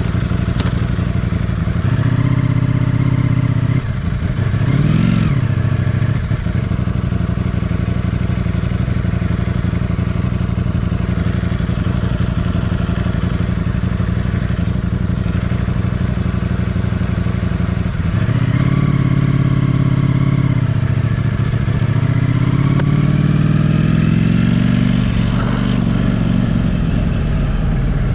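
Motorcycle engine running while riding. Its note rises under acceleration a few times and drops at gear changes, with a long rising pull a few seconds before the end.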